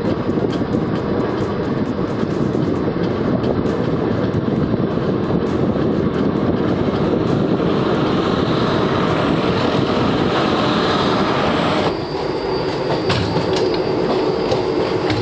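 Running noise of a moving passenger train's ICF coach: a steady, loud rumble and rattle of wheels on the rails. The sound changes abruptly about twelve seconds in.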